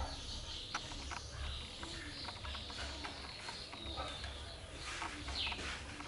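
Birds chirping in the background: scattered short high calls, with a falling chirp near the end.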